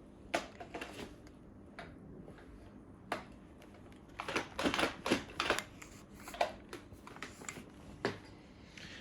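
Sharp clicks and knocks of hard plastic as the Roborock H7 mopping add-on is handled and fitted to the cordless vacuum. The clicks come singly at first and cluster thickly about four to six seconds in.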